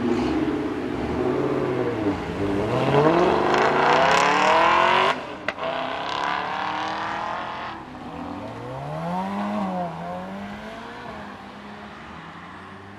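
A sports car accelerating hard away, its engine revs climbing steeply to a loud peak, dropping suddenly at a gear change, then climbing again and fading as the car pulls away.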